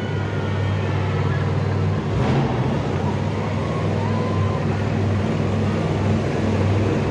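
Monster truck engine running steadily at low revs.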